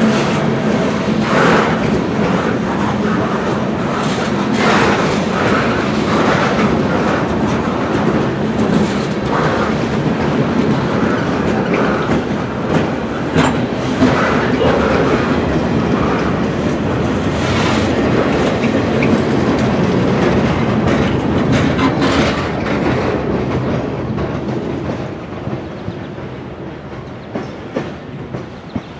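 Conrail freight train rolling past, its wheels clicking over rail joints with a steady rumble. The sound fades away over the last few seconds as the train moves off.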